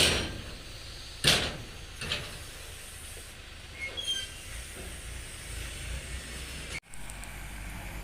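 Heavy diesel earthmoving machinery running with a steady low rumble, with two short loud bursts of noise near the start and brief high metallic squeals about four seconds in.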